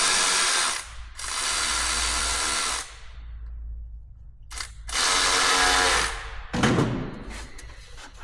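Cordless power driver, such as an electric ratchet or drill, running in three bursts of one to two seconds each while tightening down the intake's hose clamps.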